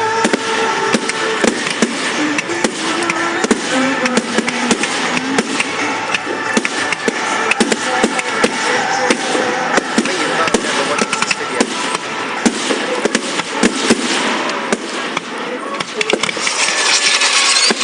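Fireworks display going off: a dense, continuous run of crackles and bangs from aerial fireworks, with a louder hissing stretch near the end.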